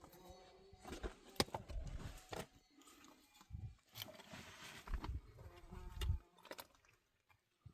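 A flying insect buzzing close by, coming and going, among several sharp clicks and uneven low rumbles.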